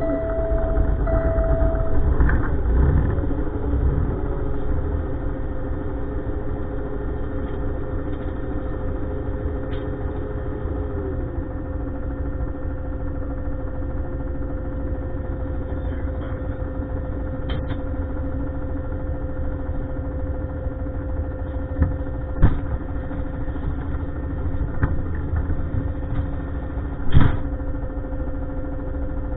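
A heavy truck's diesel engine starts up, runs up for a few seconds, then settles into a steady idle, with a beeping tone that stops about two seconds in. A few sharp metal knocks come later, the loudest near the end.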